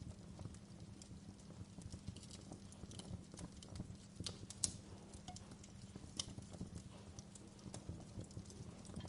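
Wood fire crackling in a fireplace: irregular small pops and snaps over a steady low rumble, with one sharper pop about four and a half seconds in.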